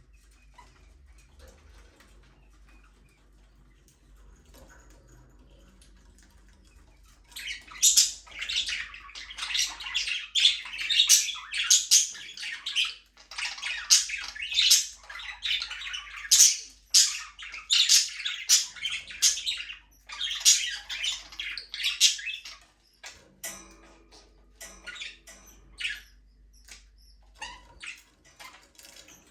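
Budgerigars chirping and chattering. The first several seconds are faint, then a dense run of rapid high chirps lasts about fifteen seconds before thinning to scattered chirps near the end.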